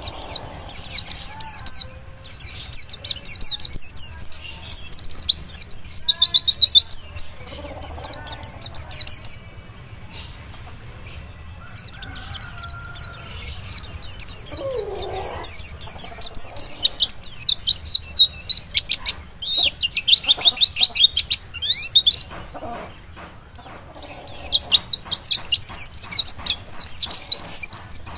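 White-eye (pleci) singing long runs of rapid, high-pitched twittering, broken by short pauses.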